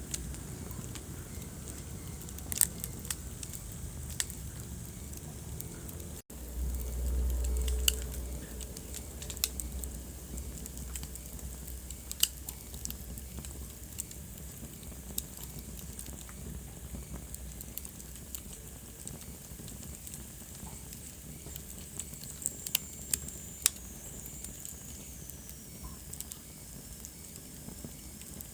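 Wood fire crackling in a fireplace: a steady hiss with scattered sharp pops and snaps. A low rumble swells for a second or two near the start, and a faint high whistle falls in pitch near the end.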